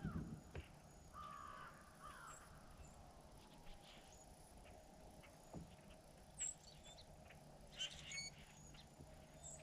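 Near silence with faint, distant bird calls: a harsh call about a second in, then a few short high chirps scattered through the rest.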